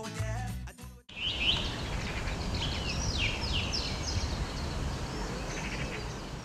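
Music cuts off suddenly about a second in, giving way to birds chirping and singing over steady outdoor background noise, with a run of quick repeated calls in the middle.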